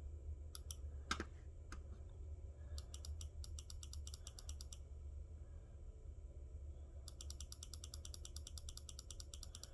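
Computer clicking: a few single clicks, then two fast, even runs of rapid clicks, like a mouse scroll wheel or a repeated key, over a low steady hum.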